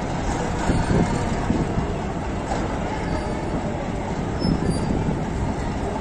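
Passenger train coaches rolling past on the rails: a steady rumble of wheels on track.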